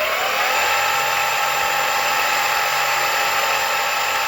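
Electric skateboard hub motors spinning unloaded at full speed, a loud steady electric whine with several fixed tones. The motors spin up just before and hold speed.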